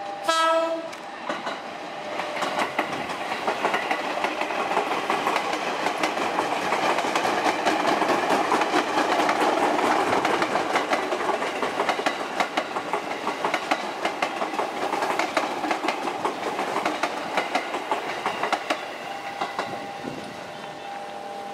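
A KRL commuter electric train (ex-JR 205 series) passing close by. A horn blast ends within the first second, then the wheels click rapidly over the rail joints. The sound is loudest about eight to ten seconds in and eases off toward the end.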